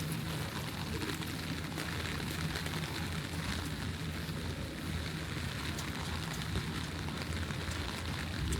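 Steady rain falling, an even hiss with small scattered drop ticks, over a low steady rumble.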